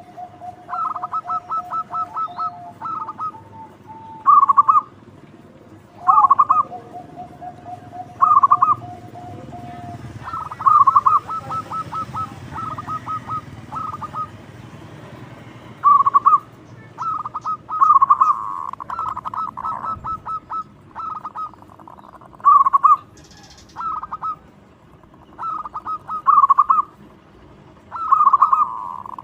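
Zebra dove (perkutut) cooing over and over: short phrases of rapid, rolling staccato coos, one to two seconds apart. A steady lower tone is held for a few seconds twice in the first ten seconds.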